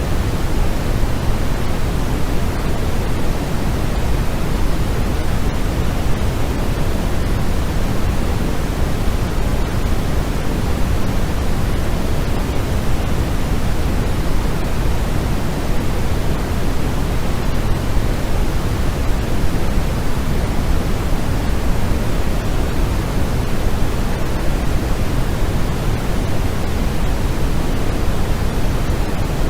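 Steady, unchanging white noise for sleep, weighted toward the low end so it sounds deep and soft rather than hissy, like pink noise.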